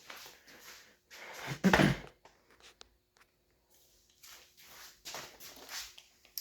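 Handling noise from a camera being repositioned: irregular rustling and light knocks, with one louder thump about two seconds in.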